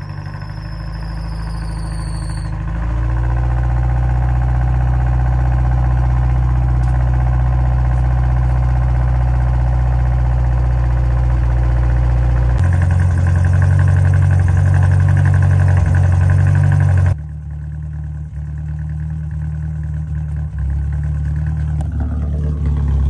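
Mazda Miata's four-cylinder engine running just after being started with a new coolant hose and thermostat housing fitted; the owner suspects he may have set the ignition timing off. Its speed steps up about three seconds in and again about halfway through, then drops back sharply a few seconds later.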